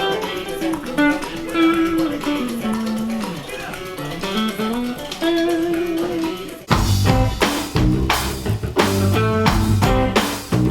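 Band music: a guitar plays a sliding melody line alone. About two-thirds of the way through, drums and bass come in all at once and the full band plays louder.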